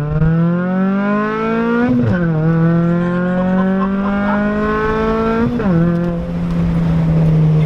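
Car engine accelerating hard, the revs climbing and then dropping sharply with an upshift about two seconds in and again at about five and a half seconds, then holding steady.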